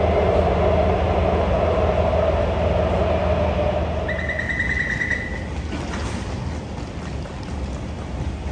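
Taipei Metro train running: a steady rumble and hum that slowly grows quieter. About four seconds in, a short, rapidly pulsing high tone sounds for about a second and a half.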